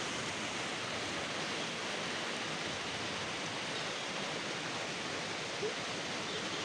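Hailstorm coming down, an even steady hiss of falling hail and rain.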